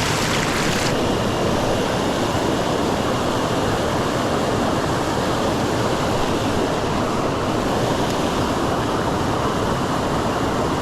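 Mountain stream rushing over rocks: a steady, unbroken rush of water. The brightest part of the hiss drops away about a second in.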